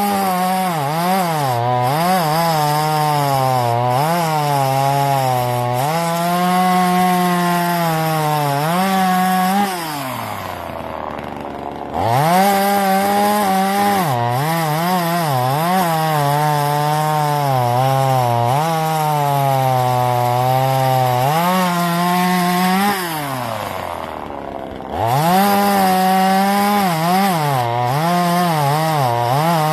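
Gasoline two-stroke chainsaw cutting through wood, its engine pitch wavering as the chain loads and unloads in the cut. Twice, about ten seconds in and again near 23 seconds, it drops back towards idle, then revs up again and goes back into the cut.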